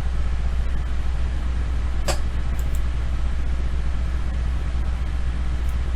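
Steady low background hum with no speech, and a single sharp click about two seconds in, like a mouse click.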